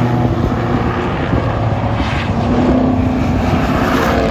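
Race car engines running hard on the circuit as cars lap past, with a steady pitched drone whose pitch shifts near the end.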